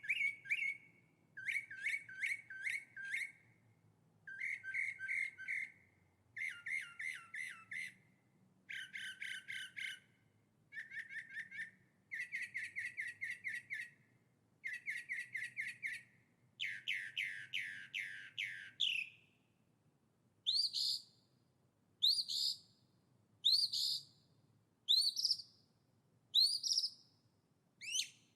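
Songbird singing: short, rapid trilled phrases repeated with brief pauses. About two-thirds of the way in, these give way to single rising chirps about once a second.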